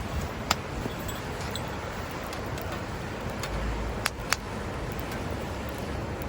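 Steady rushing background of surf and wind with a few sharp pops from burning firewood: one about half a second in and two in quick succession around four seconds in.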